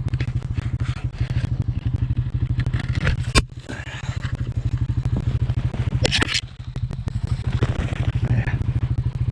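2000 Honda Rancher ES ATV engine idling steadily, with a sharp crack about three and a half seconds in and another brief snapping noise around six seconds as a branch is worked free. Crackling distortion from the upload runs through it.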